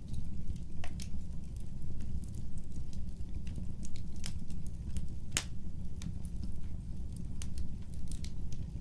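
Wood fire burning: a steady low rumble of the flames with irregular sharp crackles and pops of the burning logs, one louder snap about five seconds in.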